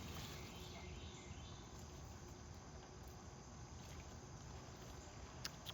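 Faint, steady chirring of crickets in the background, with a single sharp click near the end.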